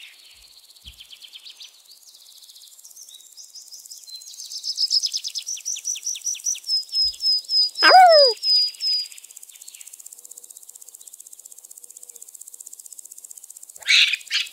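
Birds singing: a run of quick, high repeated notes builds up from about four seconds in, a loud falling call sounds near the middle, and sharp chirps come near the end, over a faint steady hiss.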